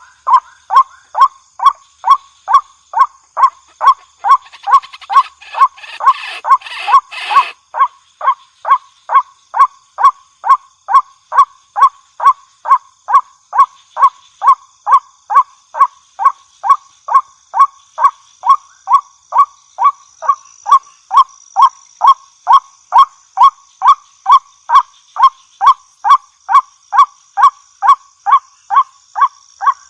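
Female white-breasted waterhen calling: short, clipped notes repeated evenly about twice a second without a break. For about three seconds near the start a harsher, noisier burst of calling overlaps the rhythm.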